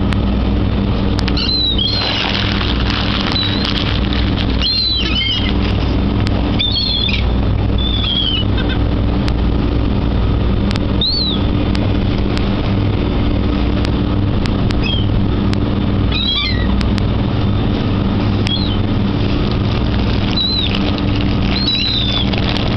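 Seagulls giving short, high mewing calls every second or two, over a steady low engine hum.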